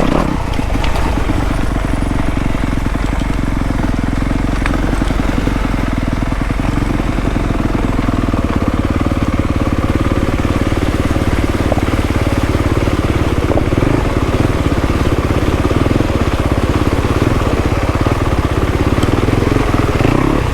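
Dirt bike engine running steadily at low revs, close to the microphone, with no large throttle changes.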